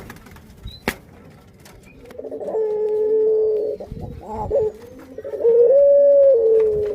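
Breeding puter pelung dove cooing: two long, drawn-out coos with a short note between them, the second coo stepping up in pitch in its middle. Two sharp clicks come in the first second.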